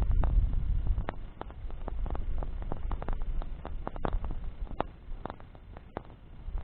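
Wood bonfire crackling, with irregular sharp pops and snaps over a low rumble that eases after about a second.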